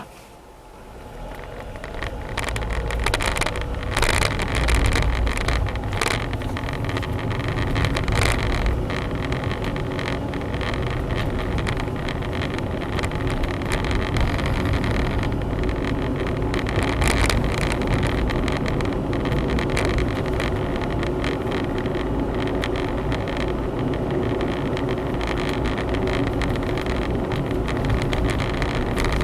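Honda Zest 4WD kei car pulling away and driving, heard from inside the cabin: engine and road noise build over the first two seconds, then run steadily.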